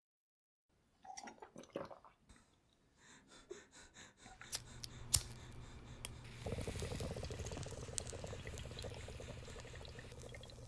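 A few sharp clicks, then steady bubbling of water from about six seconds in, as from a bong being smoked.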